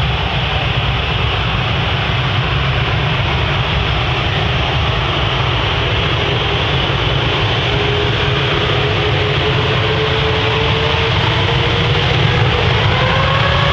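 ATR turboprop airliner's Pratt & Whitney engines and propellers running loud during takeoff, a steady rushing drone with a propeller tone that climbs in pitch from about halfway through.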